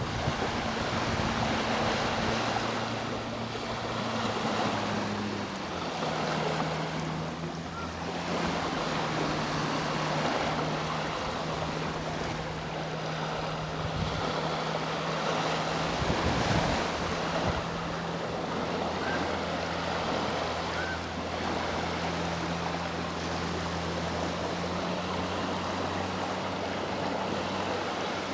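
Sea waves washing onto the shore in slow swells, with a boat engine droning steadily in the background. The engine's hum drops in pitch about five seconds in.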